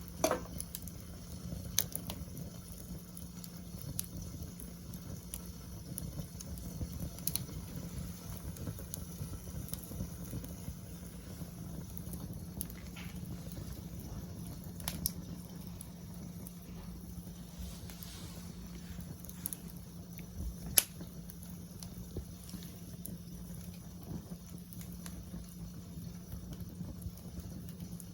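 Wood fire burning in a fire pit: a steady low rush with irregular sharp crackles and pops, a few of them louder, the loudest about two-thirds of the way through.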